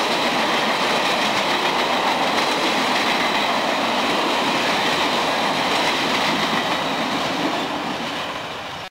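Freight train rolling past, a steady rumble and clatter of wheels on rail that fades out near the end.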